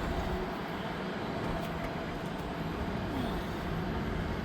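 Wind buffeting the microphone: a steady, low rumbling noise without clear events.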